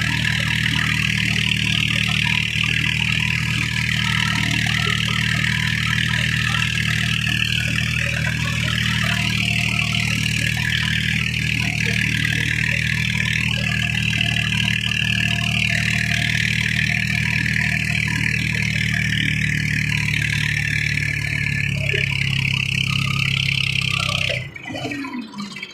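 Tractor's diesel engine running steadily while pulling a cultivator through a field. The engine sound cuts off abruptly about a second and a half before the end.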